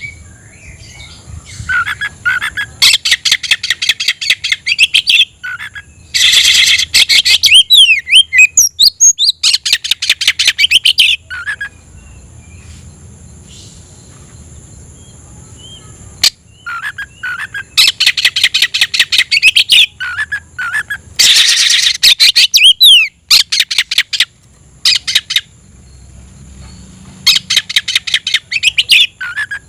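Oriental magpie-robin (kacer) singing its loud challenging song: bursts of rapid, harsh repeated notes broken by short pauses, with a longer lull of a few seconds near the middle.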